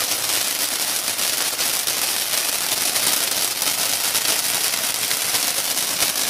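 Ground firework fountain spraying sparks: a steady hiss with dense crackling throughout.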